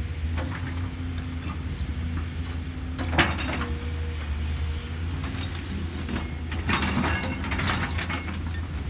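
Caterpillar excavator's diesel engine running steadily, with a sharp knock about three seconds in and a stretch of clattering near the end, typical of the bucket working soil and stones.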